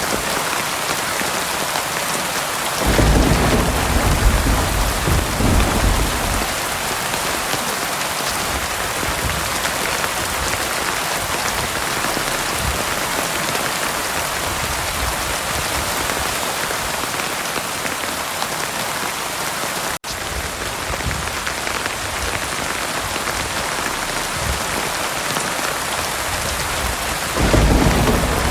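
Heavy rain falling steadily, a dense even hiss of drops on surfaces. A low roll of thunder swells about three seconds in and rumbles for a few seconds, and another rumble begins near the end.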